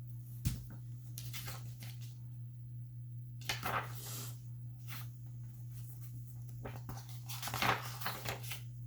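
Intermittent rustling and a sharp click from playard parts and packaging being handled, over a steady low hum.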